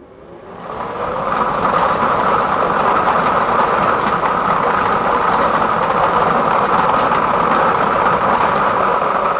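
Lottery balls tumbling and clattering in a draw machine as they are mixed to pick the winning number: a loud, dense, continuous rattle that builds up over the first second and then holds steady.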